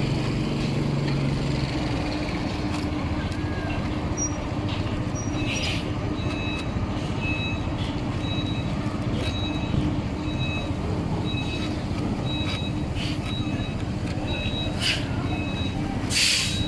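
Steady low mechanical hum, like an idling vehicle engine, with a repeating electronic beep alternating between a higher and a lower note from about six seconds in. A few short rustles break in, the loudest near the end.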